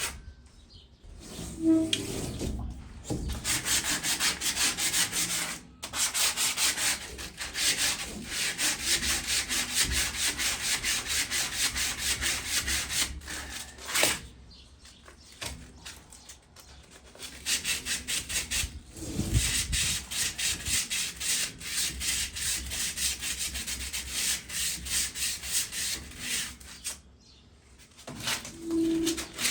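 Sandpaper scrubbing surface rust off a metal patio chair frame in rapid back-and-forth strokes. It comes in long runs broken by short pauses, with a couple of low knocks.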